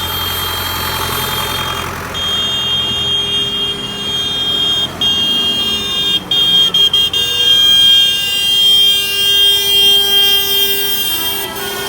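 A vehicle horn sounding in long, high-pitched held blasts, broken by a few short gaps that give quick toots, over the low rumble of passing tractor engines.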